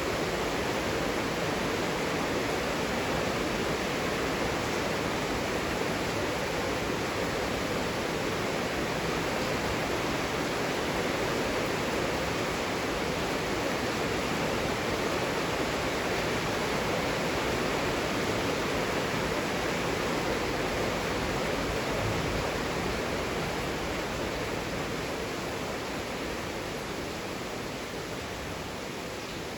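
Heavy rain falling as a steady, even hiss, easing slightly in loudness near the end.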